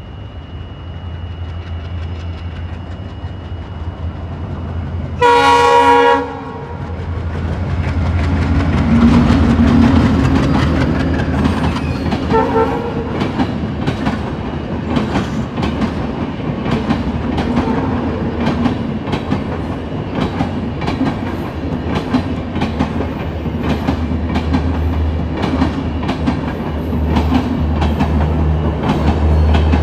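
A diesel-hauled passenger train passes close by: a low, steady engine drone, with the locomotive's horn sounding once, loud, for about a second around five seconds in. From about eight seconds in, the coaches roll past with the wheels clicking rhythmically over rail joints.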